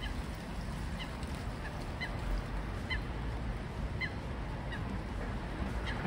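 A bird calling in short, slightly falling calls about once a second, over a steady low rumble.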